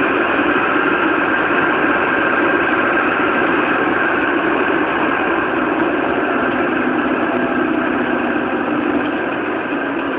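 Fire engine's motor running steadily, a continuous even drone that eases slightly near the end.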